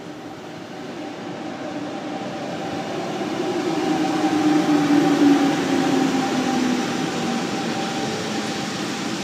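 GoldenPass electric train pulling into a station, growing louder to its closest point about five seconds in and then easing off. A humming tone sinks in pitch as the train slows to a stop, over the rumble of the wheels on the rails.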